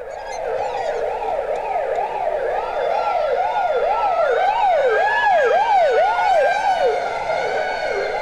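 Ambulance and police car sirens sounding together. One siren sweeps rapidly up and down, about twice a second, over a slower, higher siren tone. They grow louder over the first few seconds.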